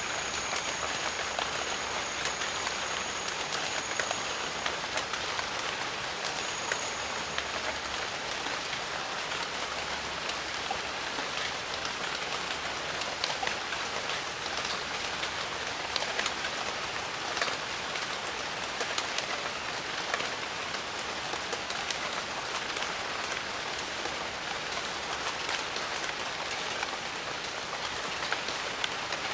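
Steady, even rain in the jungle, with many separate drops ticking close by over the dense hiss of the downpour. A thin, high, steady tone sounds over it for the first few seconds, stops about five seconds in, and returns briefly around seven seconds.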